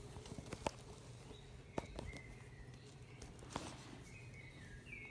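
Faint bird chirps, a few short high calls, with a handful of light clicks and taps from handling.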